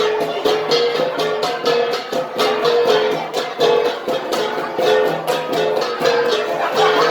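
Gangsa, flat bronze gongs, played as an ensemble in a steady, even beat of about three to four strokes a second, their ringing tones alternating between two close pitches.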